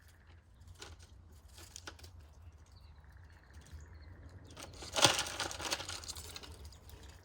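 A bird's wings flapping in a brief loud flurry about five seconds in, amid faint scattered clicks and scratches.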